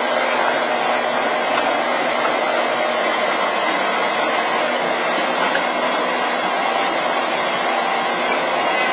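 Steady mechanical drone with a few faint constant hums, unchanging throughout.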